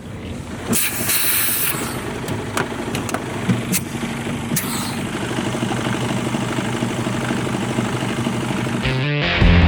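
Diesel semi-truck engine running steadily and slowly getting louder, with a short burst of air hiss about a second in and a few sharp clicks. Music comes in near the end.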